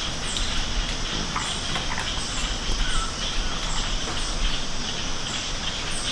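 Frogs clicking in a rainforest chorus: scattered short clicks over a steady high-pitched trill.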